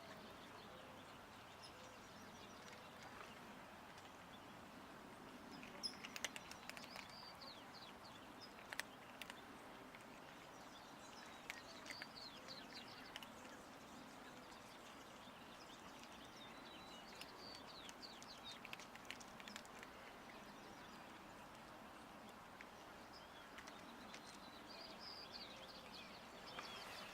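Near silence with faint bird chirps now and then in the background, and a few soft clicks.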